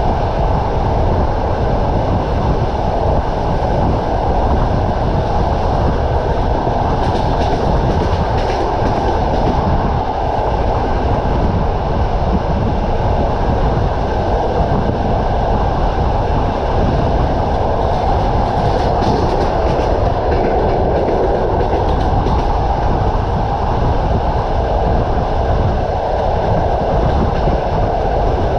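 Passenger train running along the track: a steady rumble of the wheels on the rails, with a few faint clacks from the rail joints around a third and two thirds of the way through.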